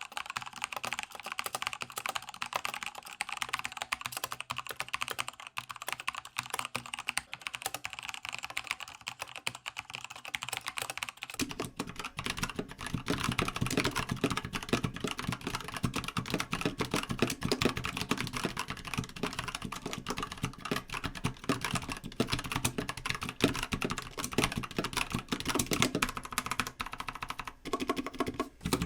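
Fast, continuous typing on a mechanical keyboard, a dense clatter of switch clicks and keycaps bottoming out. About eleven seconds in, the keystrokes take on a deeper, fuller sound.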